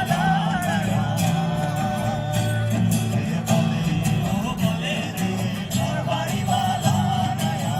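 Live Bengali folk song: a voice singing a wavering, ornamented melody over instrumental accompaniment with a steady percussive beat.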